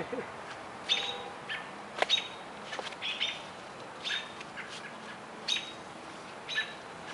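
Small birds chirping: short, high chirps repeated about once or twice a second.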